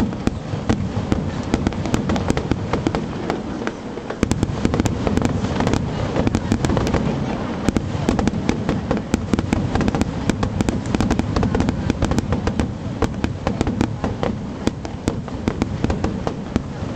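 Aerial fireworks going off in a dense, unbroken run: many sharp cracks and bangs each second over a continuous low rumble of shell bursts.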